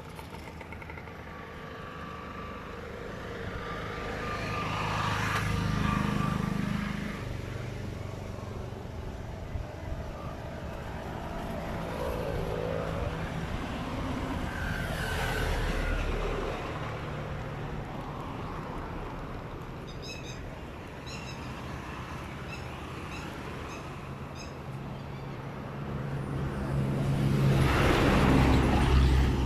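Road traffic, with engines running steadily and vehicles passing by three times, the loudest near the end.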